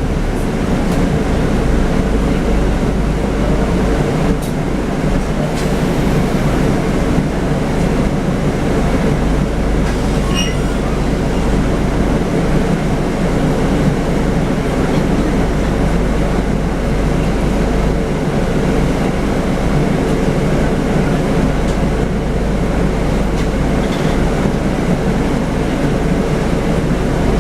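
Scania N250UD double-decker bus running steadily on the road: continuous engine and road rumble.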